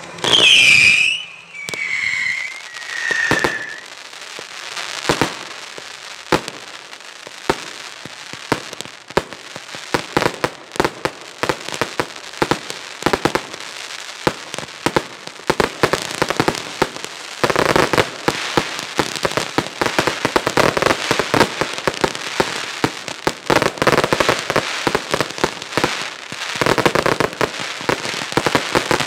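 Weco consumer fireworks firing a finale barrage: three falling whistles in the first few seconds, then a continuous run of sharp bangs and crackling that grows denser from about halfway through.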